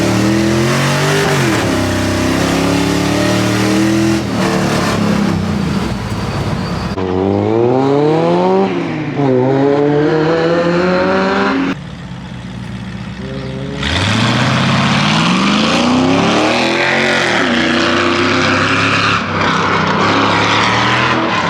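A race-prepped pickup truck's engine is revved hard on an autocross course, its pitch climbing under acceleration and dropping off between corners again and again. The sound changes abruptly a few times and dips for about two seconds around the middle.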